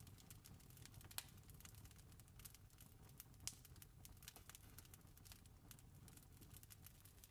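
Wood fire crackling: faint, irregular sharp pops and snaps over a low steady rumble, with two louder pops about a second in and about three and a half seconds in.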